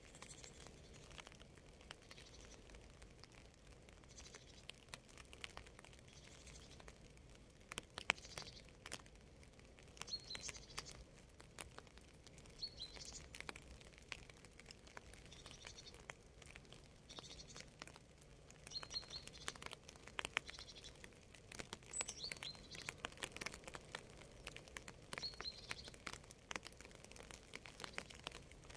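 Faint rain ambience: scattered raindrops pattering and dripping irregularly, with small birds chirping briefly every few seconds.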